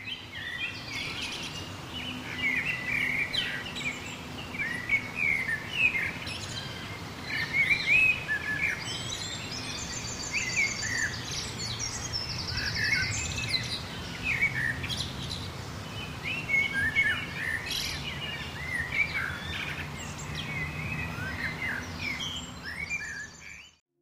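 Several songbirds chirping and singing in short, repeated phrases, with a high buzzy trill twice around the middle, over a steady low rumble.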